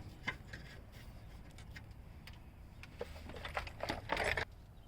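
Scattered faint clicks and light metal clinks of hand tools and sockets being handled during engine-bay work, with a short scraping rustle a little after four seconds in.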